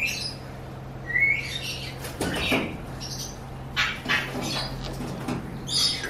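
Birds chirping and squawking in an aviary: a few short rising chirps and scattered calls, over a steady low hum.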